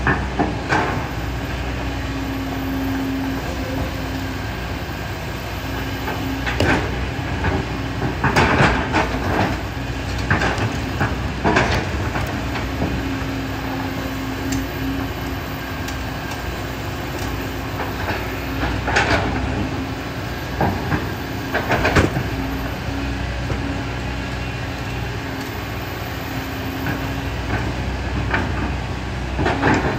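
Kobelco SK200 hydraulic excavator digging sand and gravel: the diesel engine running steadily under a hydraulic whine that comes and goes, while the bucket scrapes and knocks against stones, with several sharp clanks.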